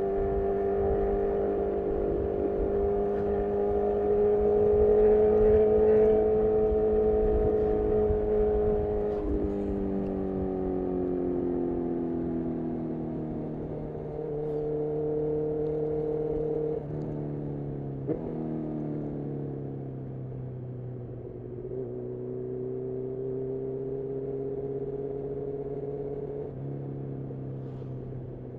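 On-board sound of a 2018 Honda CB1000R's inline-four through a full-system Black Widow exhaust. It runs steadily at moderate revs, then eases off about nine seconds in with the revs falling, and later jumps abruptly in pitch a few times as gears change. There is a short sharp click about eighteen seconds in.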